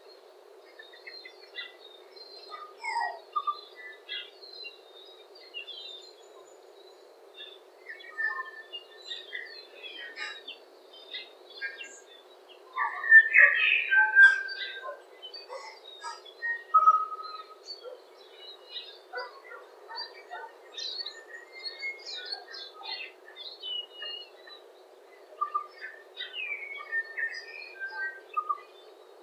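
Several birds chirping and calling in short, scattered chirps and whistles, with a louder flurry of calls about halfway through, over a steady low hiss.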